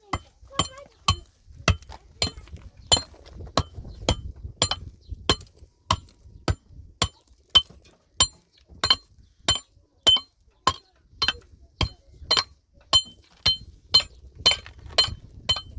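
Steady, even metal-on-metal striking, about one and a half blows a second, each blow with a short bright ring.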